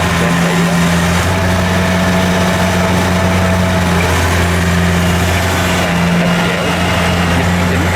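Kubota DC70 combine harvester's diesel engine running steadily with a constant low drone.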